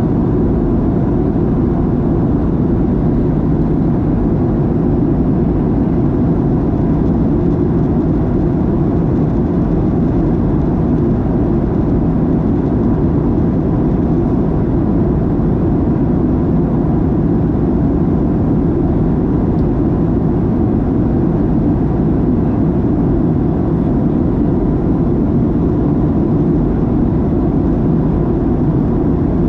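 Steady engine and airflow rumble of a Boeing 737-700 heard from inside the passenger cabin, with a faint steady tone riding over it.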